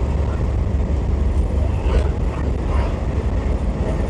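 Steady low rumble of road and engine noise inside a moving vehicle at highway speed.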